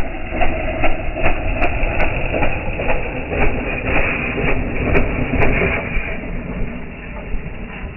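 Small motorbike engine running, heard slowed down: its exhaust pulses come through as separate low thumps about two a second over a rough rumble, easing slightly near the end.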